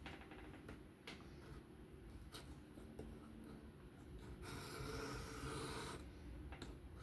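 Steel knife blade drawn across a sharpening stone by hand, raising a burr on the second side of the edge. Quiet scraping with a few light ticks, then one longer, louder stroke past the middle.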